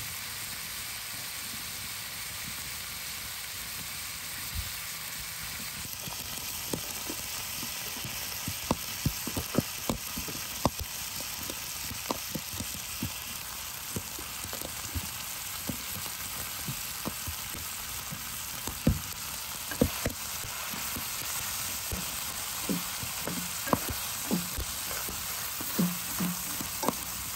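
Bacon and diced onions sizzling in a frying pan: a steady hiss with scattered clicks and taps of a spatula stirring against the pan.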